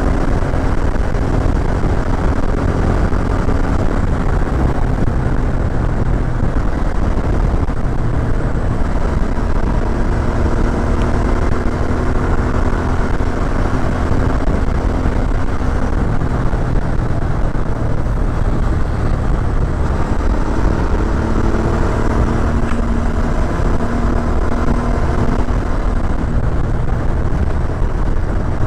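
Suzuki V-Strom 650 XT's V-twin engine running under way on a hill climb, its pitch drifting up and down with the throttle over a steady, heavy low rumble.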